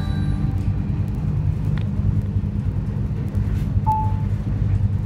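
Steady low rumble of a moving passenger train, heard from inside the coach, with a few faint clicks and a short beep about four seconds in.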